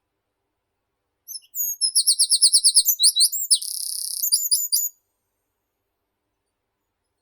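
A single songbird phrase about three and a half seconds long: a fast run of repeated high notes, then a buzzy stretch, ending with a few quick notes.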